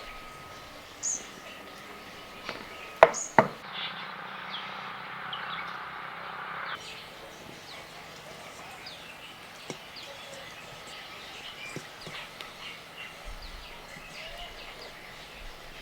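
Small birds chirping, with two sharp knocks in quick succession about three seconds in and a few seconds of even hiss that starts and stops abruptly.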